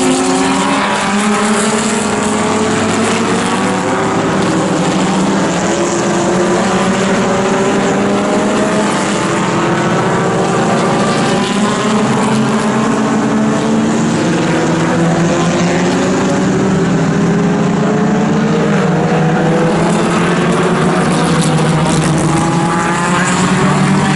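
Several racing sports-car engines running together, their pitch climbing slowly under acceleration and dropping back at each gear change, over and over as the cars pull away.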